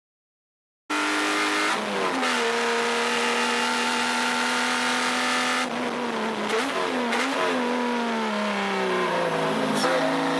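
Subaru EZ30 flat-six engine in a Porsche 914/6 running hard under load on track, starting about a second in. Its pitch dips briefly near two seconds, holds steady, then falls gradually in the second half as the revs come down.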